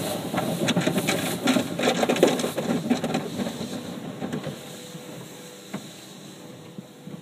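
Automatic car wash cloth strips and brushes slapping and rubbing across the car, heard from inside the cabin as a dense rapid clatter that fades away over the second half.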